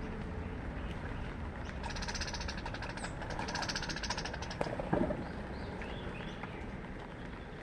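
A small bird gives two rapid, buzzy trills about a second each, followed by a few short chirps, over a steady hiss of rain. A single knock sounds about halfway through.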